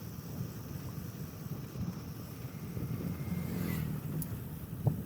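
Steady low rumble of a vehicle on the road during a ride, with wind on the microphone. A short knock comes near the end.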